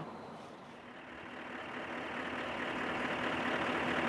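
Scania V8 heavy-haulage truck engine running steadily, growing gradually louder after the first second.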